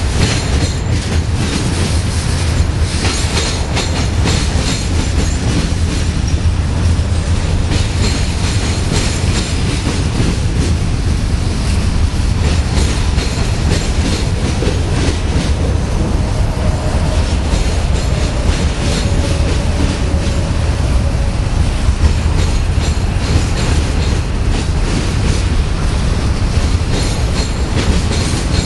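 Union Pacific manifest freight train's cars rolling past at close range: a steady, loud rumble with a continuous run of clicks and clatter from the steel wheels on the rails.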